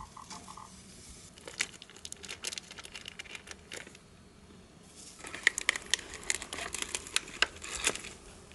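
Something crinkling and rustling as it is handled: scattered crackles at first, then after a short lull a denser run of sharp crackles lasting about three seconds.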